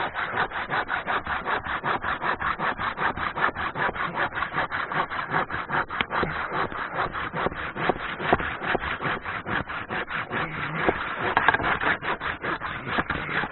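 Hand saw cutting through a dead branch with fast, even back-and-forth strokes, about four or five a second, stopping abruptly at the end.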